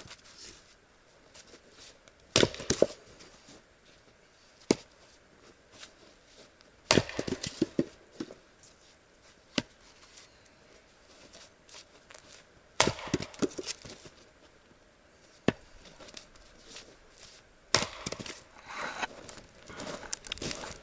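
Split firewood logs knocking and clattering against each other as they are stacked into a pile: short bouts of sharp wooden knocks, several in quick succession about seven seconds in and again near the end, with quiet gaps between.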